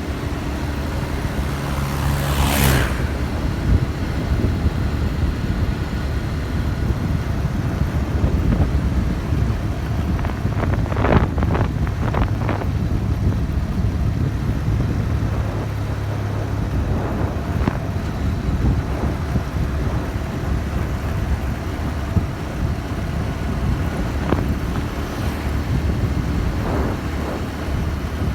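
Motorcycle riding along: the engine runs steadily under a low wind rumble on the microphone, with a few brief sharper noises.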